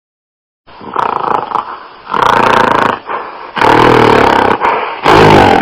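An animal calling: a run of about four rough, noisy calls, each lasting about a second.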